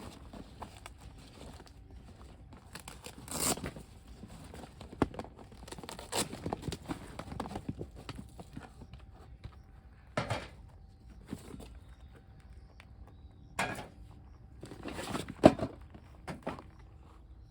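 Irregular knocks and rustling from objects being handled and moved about, with several louder knocks or clatters scattered through.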